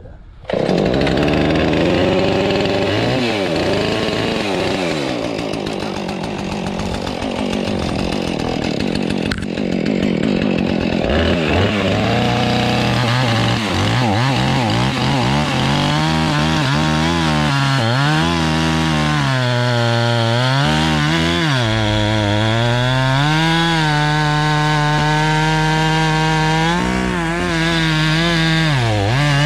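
Two-stroke Husqvarna chainsaw starting up about half a second in and running while cutting a log. Its engine pitch repeatedly dips and climbs as the chain loads up in the cut and revs free.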